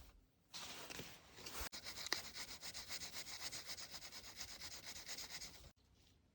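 Quick, even abrasive strokes on the steel blade of a hand-forged hook knife, about four a second, stopping suddenly near the end.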